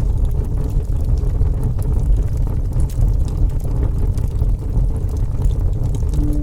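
Fire burning: a steady low rumble with scattered small crackles.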